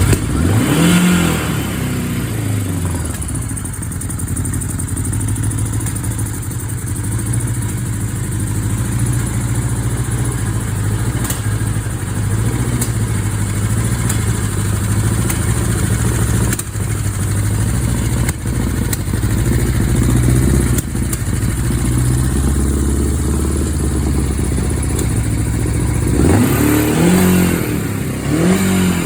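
1981 Yamaha XS1100 Special's air-cooled inline-four engine idling steadily, with a throttle blip about a second in and a few quick revs near the end.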